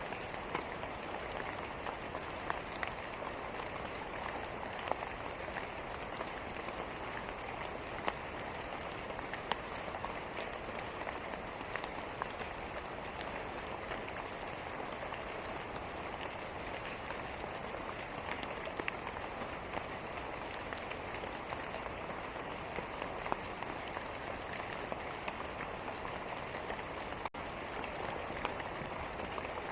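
Steady rain falling, with scattered sharper drop ticks standing out from the even hiss. A split-second break in the sound comes near the end.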